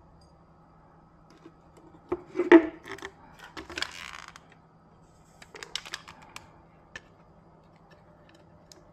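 Light clicks and clatter of small hard objects being handled, loudest about two and a half seconds in, with a brief scraping rustle about a second later and a few more clicks after; a faint steady hum underneath.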